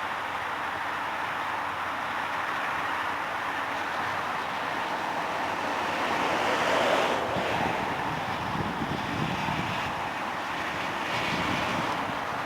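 A train rolling by: a steady rushing rumble of wheels and cars that swells briefly about seven seconds in.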